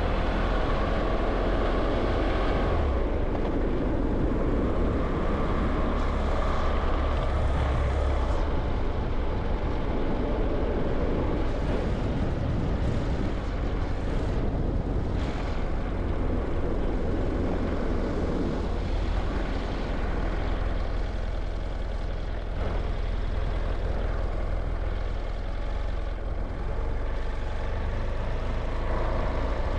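A vehicle driving along a highway: steady engine and road noise with a strong low rumble.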